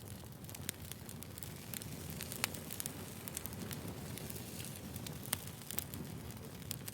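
Burning firewood crackling: a steady low rumble under frequent sharp pops and snaps. The loudest pops come about two and a half seconds in and again just after five seconds.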